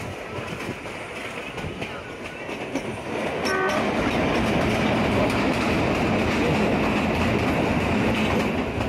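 Narrow-gauge train running, its wheels clattering on the rails as heard from an open carriage window. A brief horn toot sounds about three and a half seconds in, and then the running noise grows markedly louder as the train passes between close rock walls into a tunnel.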